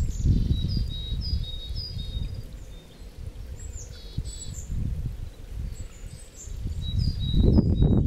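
Small birds calling in short, high, falling chirps, several in quick series near the start, again about four seconds in, and near the end, over a loud, uneven low rumble that swells again from about seven seconds in.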